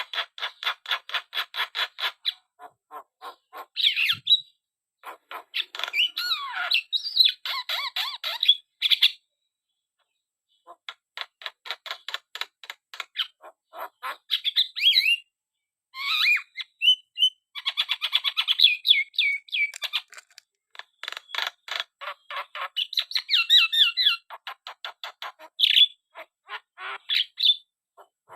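Javan myna (jalak kebo) chattering: rapid runs of harsh rattling notes mixed with squawks and whistled glides, breaking off briefly twice.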